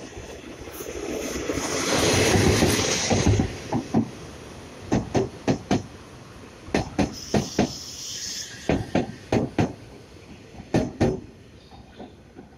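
Taiwan Railway E300-class electric locomotive E306 passing through a station hauling EMU500 passenger cars. A loud rush peaks about two to three seconds in as the locomotive goes by, then the wheels click over the rail joints in quick groups of about four, one group per pair of bogies, with the last group about eleven seconds in.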